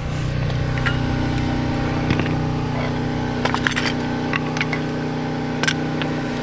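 A steady mechanical hum, like an engine or motor running, with scattered light metallic clicks and clinks as parts are handled during the wheel refit on a brake job.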